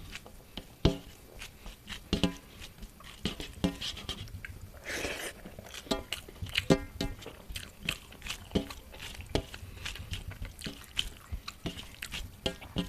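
Close-up eating sounds: wet mouth smacks and chewing clicks, many short sharp ones at an uneven pace, from a person eating shim posto.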